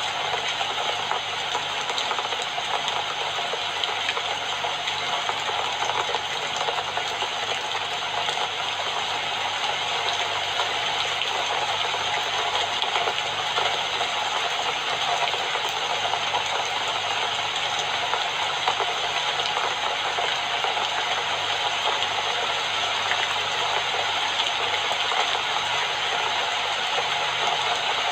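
Steady rainfall, a dense even patter of drops with no let-up.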